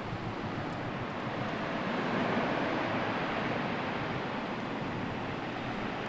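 Sea waves washing onto the shore: an even rush of surf that swells about two seconds in and then slowly eases.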